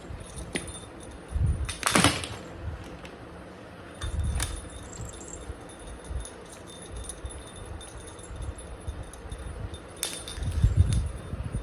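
Metallic jingling of a cat toy with a small bell, in intermittent bursts with sharp clicks and a few soft low thumps. The loudest burst is about two seconds in, with others about four and ten seconds in.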